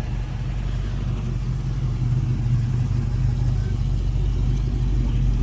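Holden car's engine running steadily at low speed as the car rolls in, a low, even rumble that grows slightly louder near the end.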